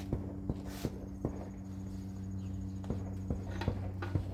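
Roofers' hammers pounding repeatedly, sharp knocks a few a second at irregular spacing, over a steady low hum.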